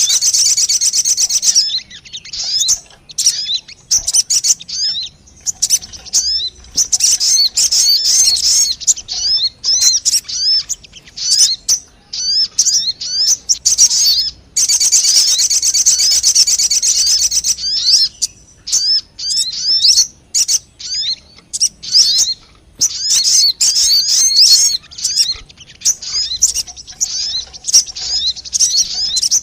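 Lure recording of sogon birds calling: rapid high chirps and short up-slurred twitters. Dense, continuous chattering stretches, one near the start and one about halfway, alternate with sparser runs of separate notes.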